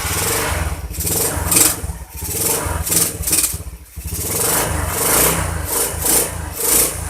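Yamaha Crypton Z's small single-cylinder four-stroke engine running, its throttle blipped over and over so the engine note keeps swelling and dropping.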